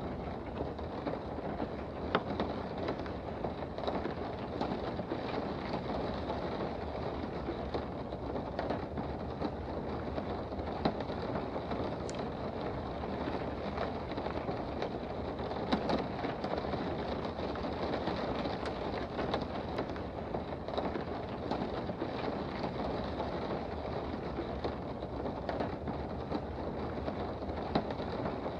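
Steady rain heard from indoors, an even hiss with scattered sharper ticks of drops striking close by.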